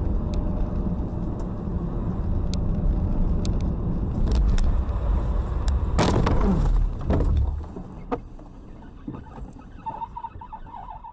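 Car driving on a winter road, heard from inside the car: a steady low rumble of engine and tyres with scattered clicks, a loud sudden noise about six seconds in, then quieter running with a short pulsing beep near the end.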